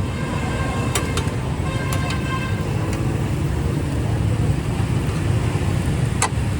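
Steady rumble of road traffic, with a few sharp clicks about a second in, about two seconds in and near the end.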